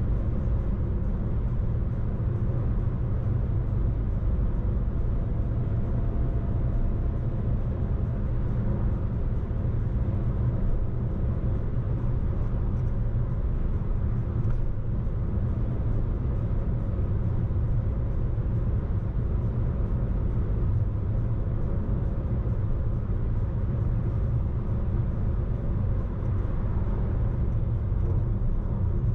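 Steady low rumble of a car driving along at an even pace: road and engine noise.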